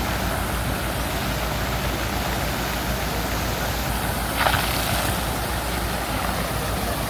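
Steady street traffic noise from passing vehicles, with one short, sharper sound about four and a half seconds in.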